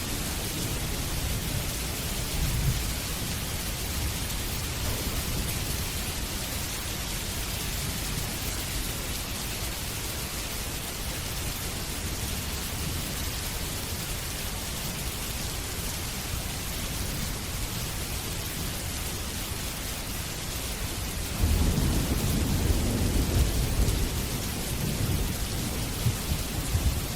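Steady rain falling, an even hiss. Thunder rolls in as a low rumble about three quarters of the way through and carries on to near the end.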